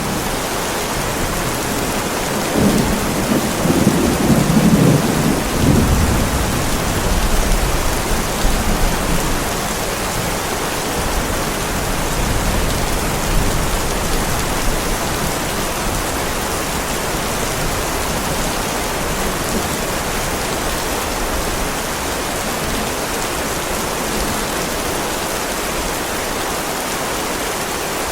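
Heavy rain falling steadily on a driveway, with a low rumble of thunder about three seconds in that dies away by about six seconds.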